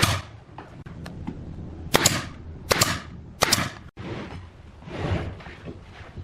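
Sharp knocks of a workshop impact striking wood: one at the start, then three more about three-quarters of a second apart from about two seconds in, each with a short ring. Two softer, duller noises follow near the end.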